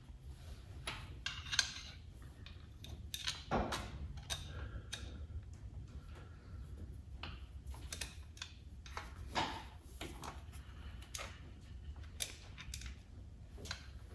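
Scattered metallic clicks and clinks of hand tools and small parts being handled while working on the front of an engine, over a low steady hum.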